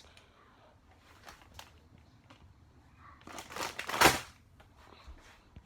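Snack packaging crinkling and rustling as it is handled, loudest about four seconds in, after a few faint clicks.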